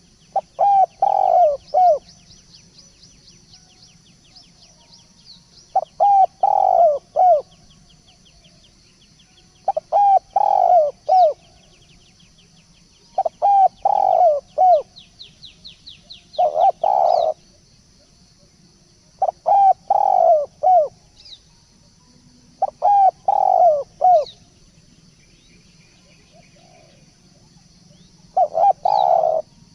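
Turtledove cooing: phrases of several low, rounded coos, one phrase every three to five seconds, with a longer gap about three quarters of the way through.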